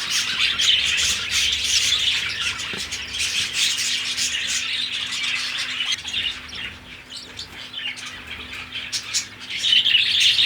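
A group of budgerigars chattering with dense, high chirps; the chatter thins out past the middle and grows loud again near the end.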